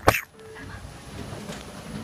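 A single short, sharp thump just after the start, then a low steady background hum.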